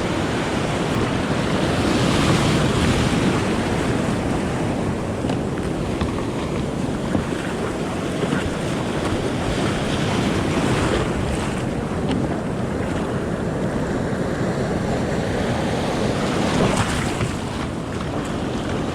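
Shore-break surf crashing and washing up the beach, with wind buffeting the microphone. Louder surges of breaking waves come about two seconds in and again near the end.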